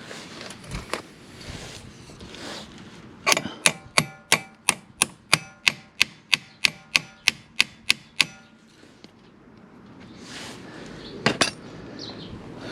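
Hammer driving a socket onto a rounded-off oil drain bolt: about sixteen ringing metal-on-metal blows, three a second, then a quick pair of blows near the end.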